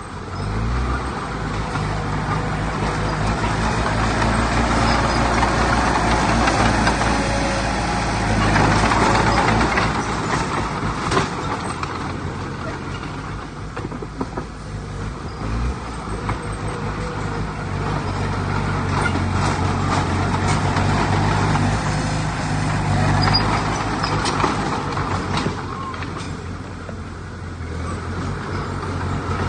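Heavy diesel engine of earthmoving machinery running under load, its level rising and falling, with a few short knocks and rattles.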